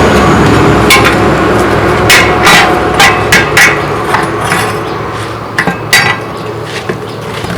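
Hammer striking metal about nine times at an uneven pace, each blow ringing briefly, during truck tire work. A steady machine noise fades away underneath.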